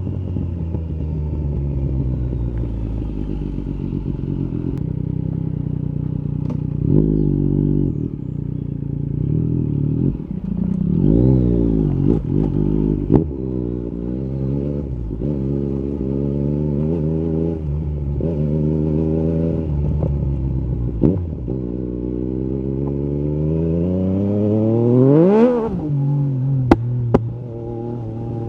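Yamaha MT-09 SP's three-cylinder engine through an Akrapovic carbon Racing-Line exhaust, pulling through the gears with the revs climbing and dropping at each shift. About 25 s in it revs hard to a high peak, then comes off the throttle with a few sharp cracks from the exhaust.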